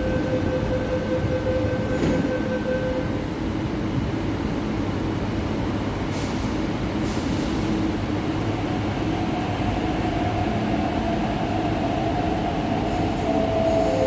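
Electric metro train running: a steady rumble with a humming tone for the first few seconds, then from about nine seconds in a motor whine that steps down in pitch near the end.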